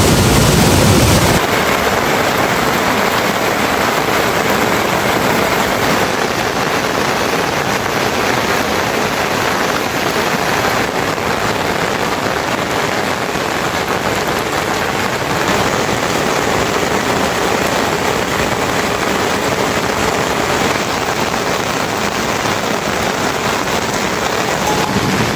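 Steady rain falling, an even hiss with no other distinct sounds; its character shifts slightly about a second in.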